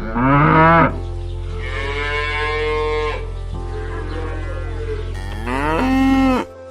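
Cattle mooing: four calls, the first and last short and loud and a longer, drawn-out one between them, over a steady low hum.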